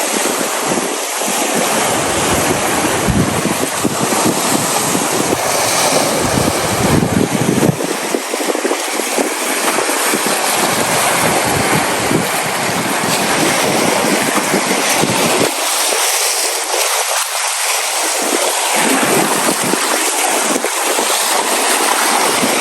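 Lake waves washing steadily onto the shore, with wind buffeting the microphone in gusts.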